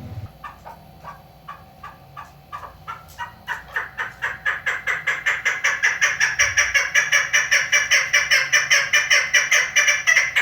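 Female chukar partridge (chakor) calling: a long run of sharp 'chuk' notes that starts slow and speeds up to about five or six a second, growing louder over the first half, then breaks off abruptly.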